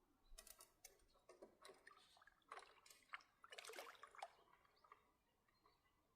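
Faint, irregular clicks and rustles, bunched together for about four seconds and then dying away.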